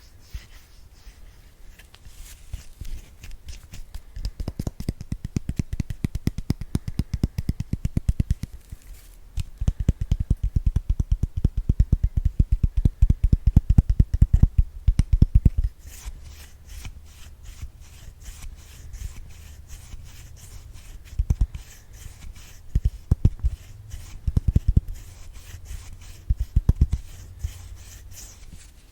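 ASMR brush swept rapidly across the microphone: fast runs of short scratchy strokes, each with a low thud. A long busy spell fills the first half, and shorter bursts come later.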